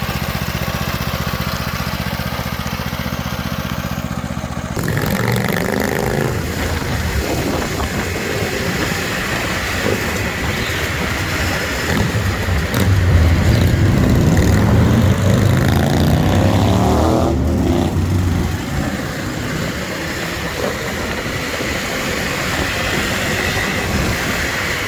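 Predator 212 single-cylinder four-stroke engine on a minibike idling steadily, then from about five seconds in revving up and down repeatedly, loudest in the middle stretch.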